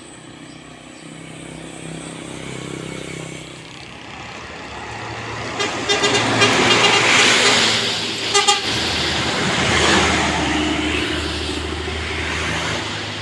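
A heavy vehicle drives past with its engine growing louder, sounding its horn in a quick run of short toots about halfway through and a second brief burst of toots a couple of seconds later. A second vehicle follows close behind.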